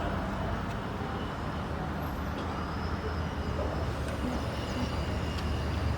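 Steady low rumble of a running vehicle, without change in pitch or level.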